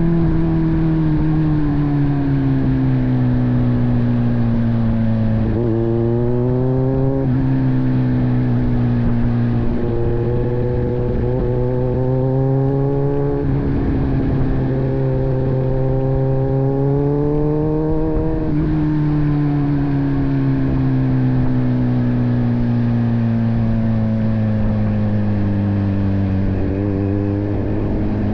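Kawasaki Z900's inline-four engine through an AR aftermarket exhaust, under way. The revs sink, then climb several times with short breaks at the gear changes, then die away slowly for a long stretch, with a short blip of throttle near the end.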